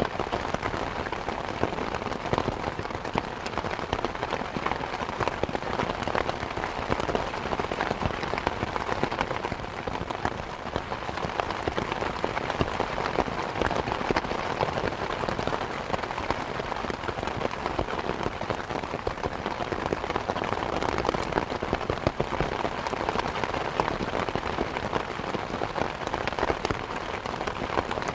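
Steady rain falling on a surface, a dense even patter of countless drops with no change in strength.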